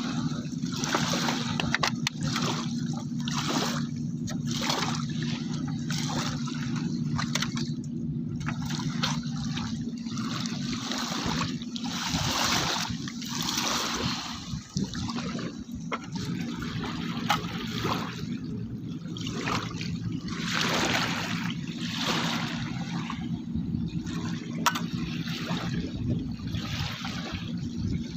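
River water trickling and splashing, coming and going in uneven swells, over a steady low hum.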